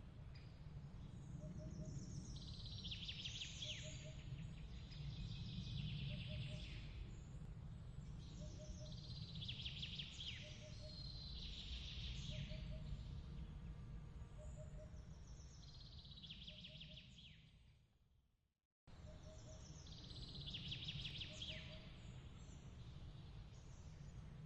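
Layered night-time nature ambience: a steady low rumble of breeze under soft chirping calls that come in bursts about every two seconds, with a faint short note repeating about once a second. About three-quarters of the way through it fades to silence, then cuts back in abruptly a moment later, as at a loop point.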